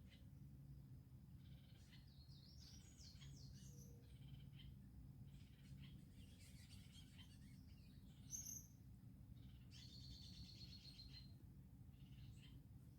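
Faint birdsong: several short chirps and whistled notes come and go, with a fast trill about ten seconds in, over a steady low hum.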